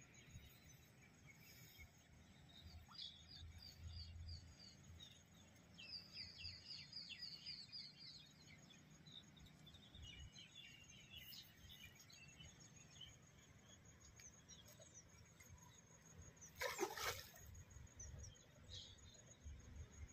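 Quiet riverside ambience: faint birds chirping in short trills now and then, with one brief rush of noise about seventeen seconds in.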